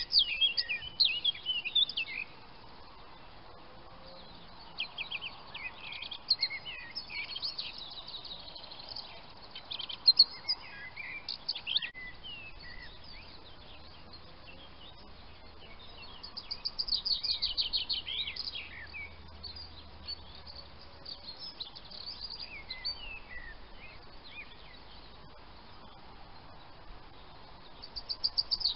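Small birds singing and chirping, with many short calls and several quick trills; the busiest bursts come at the start, a little past halfway, and at the end.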